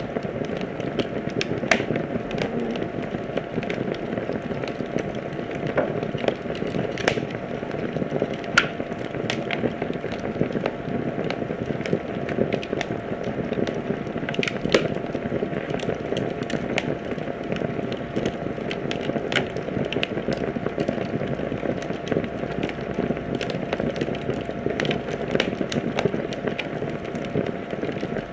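Wood fire crackling in a fireplace: a steady low rush of burning with irregular sharp pops and snaps, a few of them louder.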